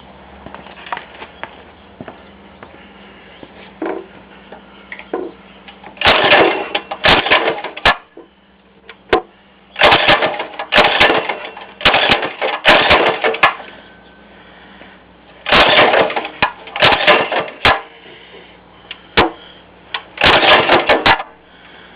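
Baja 97cc four-stroke mini bike engine being started, heard as repeated short loud bursts in four groups with quiet gaps between.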